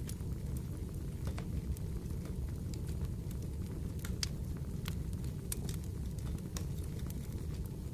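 Wood fire crackling in a fireplace: a steady low rush of flames with irregular sharp pops and snaps, a few of them louder.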